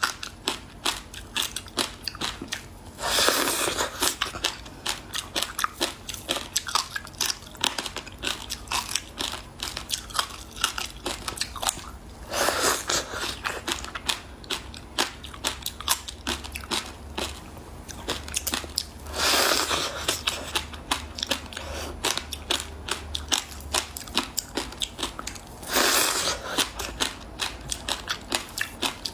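Frozen passion fruit ice being bitten and chewed close to the microphone: a steady run of quick, dense crunches, with four louder, longer crunching bites spaced through it.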